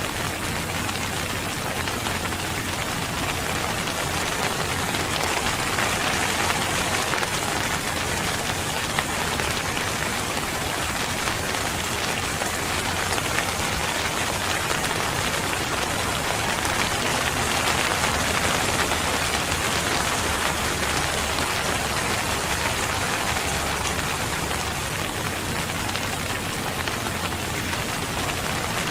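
Steady rain falling, a dense even patter on surfaces without let-up.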